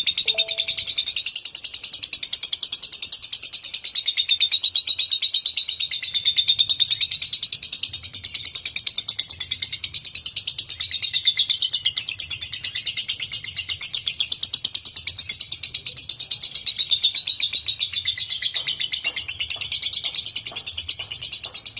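Lovebird singing a long 'ngekek': an unbroken stream of very rapid, high-pitched chattering notes with no pause, the sustained chatter of a 'konslet' lovebird.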